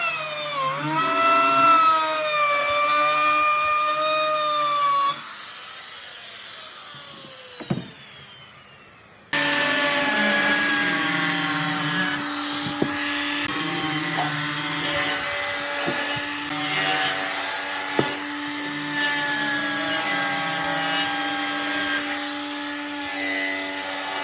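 Power tool motor running with a high whine that dips and rises under load; about five seconds in it switches off and winds down with a falling whine. A few seconds later a power tool starts suddenly and runs at a steady pitch, with a few light knocks.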